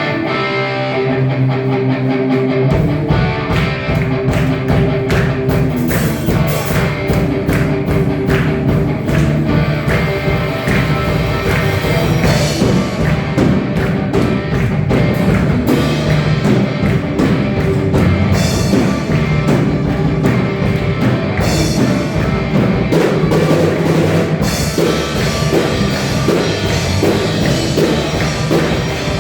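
Live band music with electric guitar and a drum kit, the drums coming in a couple of seconds in and keeping a steady rock beat.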